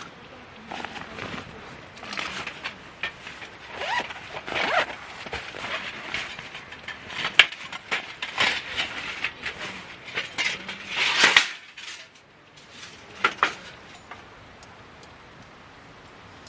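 Handling noises: an irregular run of clinks and scrapes, like cookware and utensils being moved about, that stops about eleven seconds in, with two more clinks a little later.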